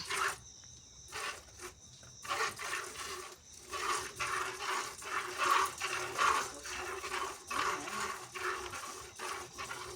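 Hand milking a cow: milk squirting in short strokes into a container, about two squirts a second, starting about two seconds in.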